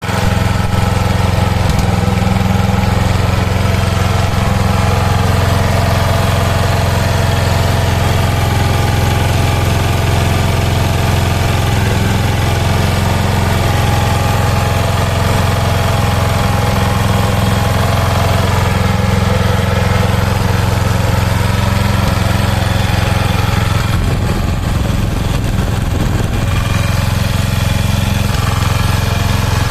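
Kawasaki FG201 5 hp four-stroke gasoline engine running steadily. About 24 seconds in, its note wavers and drops slightly in level for a few seconds, then settles again.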